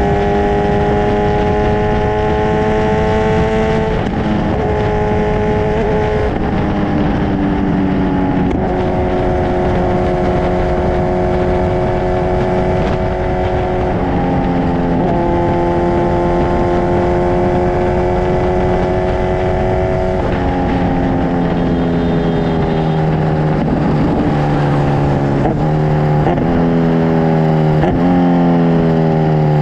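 Kawasaki Ninja 1000SX inline-four engine through an Akrapovic full-system exhaust, running under way at fairly steady revs with small changes in pitch. From about two-thirds in, the revs drop in a quick series of steps and then fall away, like downshifts while slowing.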